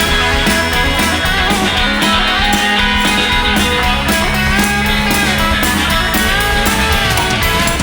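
Rock band playing an instrumental passage of a song live: guitars over bass and a steady drum beat, with no singing.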